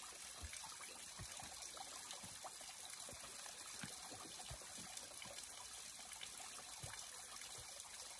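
Small stream trickling faintly, carrying little water.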